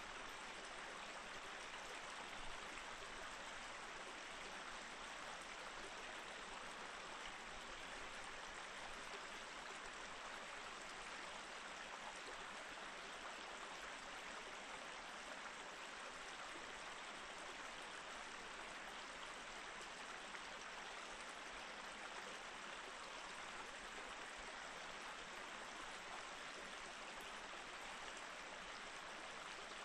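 Mountain stream flowing steadily over rocks, an even rushing and babbling of water.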